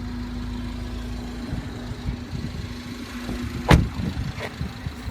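Car engine idling with a steady low hum, which turns uneven about a second and a half in. A single sharp knock sounds a little past halfway and is the loudest moment.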